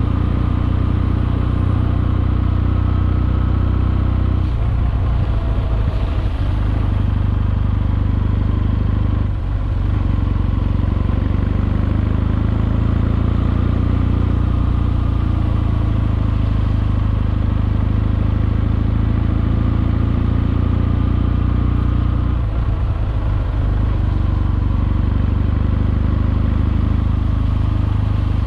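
Kawasaki W650's air-cooled parallel-twin engine running under way through Wyban Classic mufflers, a steady low engine note. The note breaks up briefly three times, about four, nine and twenty-two seconds in.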